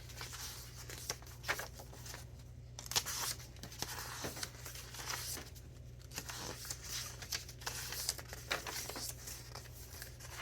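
Paper pages of a thick handmade junk journal being turned and handled: irregular rustling and crinkling of mixed papers with small clicks and taps, over a faint steady low hum.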